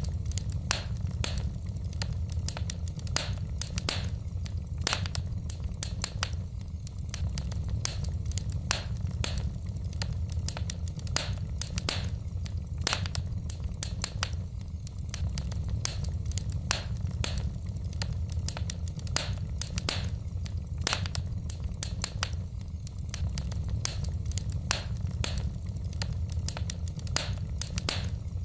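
Logs burning in a fireplace, crackling with irregular sharp pops and snaps, several a second, over a steady low rumble.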